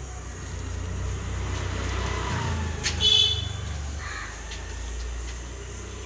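A single short, harsh bird call about three seconds in, over a low steady rumble.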